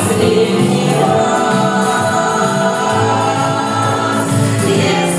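A Russian song with instrumental backing and singing voices, in a pause between sung lines of lyrics.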